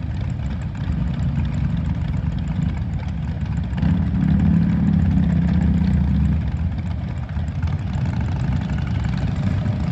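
Several motorcycle engines running as a group of bikes prepares to ride off, a steady low rumble that swells for about two seconds near the middle.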